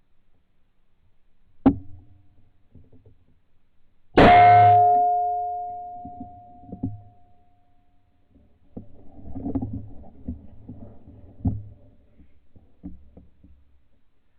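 A sharp click, then a single loud shot about four seconds in, followed by a ringing tone that dies away over a few seconds. Quieter knocks and rustling of handling follow.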